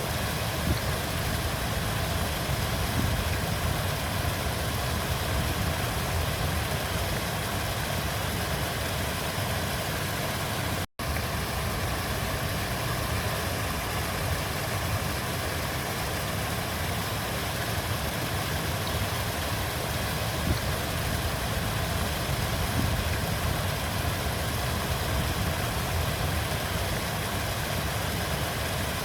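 River water flowing, a steady rushing sound with a deep low rumble. It cuts out for a split second about eleven seconds in.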